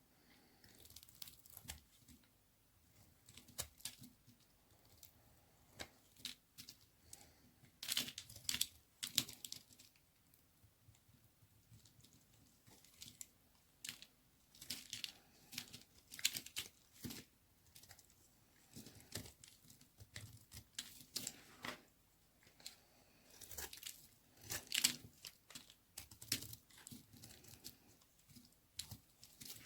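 A knife cutting through a bar of dry white baby soap: irregular crisp crackling and scraping strokes, loudest about eight seconds in and again near the end.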